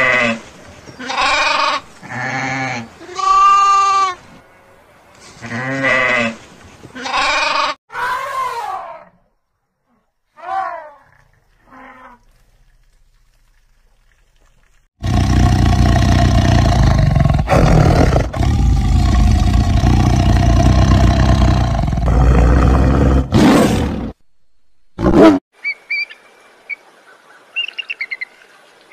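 Sheep bleating, one loud call after another for about nine seconds, with a few fainter short bleats after. After a pause, an elephant gives a loud, rough, drawn-out call lasting about nine seconds. Near the end, a bald eagle gives a run of high chirping calls.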